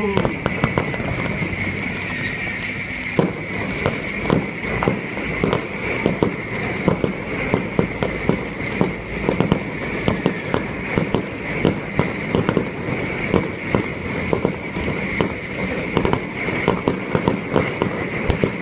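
Fireworks going off in a dense, continuous barrage: many sharp bangs and crackles in quick, irregular succession.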